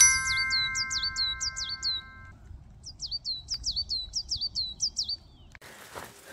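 A songbird singing two runs of quick, down-slurred whistled notes, about four a second, with a pause of about a second between the runs. In the first two seconds a chime of several held tones rings under the song, and near the end the birdsong gives way to footsteps.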